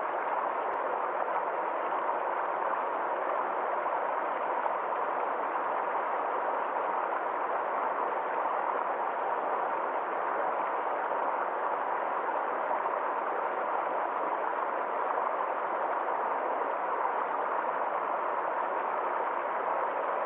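Water of a forest stream flowing steadily, an even noise with no breaks or changes.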